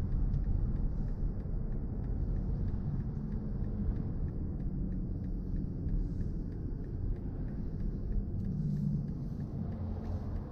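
Steady low road and tyre rumble inside the cabin of a moving BMW i4 M50, an electric car, so there is no engine note.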